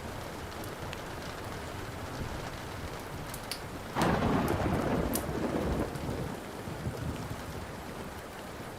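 Steady rain with a thunderclap about four seconds in that rumbles away over the next couple of seconds. A few sharp pops of a crackling wood fire sound over the rain.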